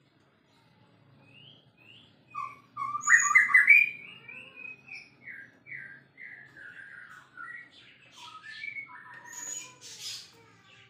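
White-rumped shama (murai batu) singing: after a short quiet start, a long run of varied sliding whistled notes begins about two seconds in, loudest just after three seconds, and carries on until near the end.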